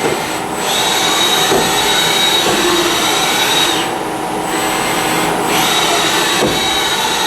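Fadal vertical machining center jogging an axis at feed, its servo motor and ball screw giving a steady high whine over the machine's running hum. The whine comes in about half a second in and stops after about three seconds, then starts again for a second move near the end.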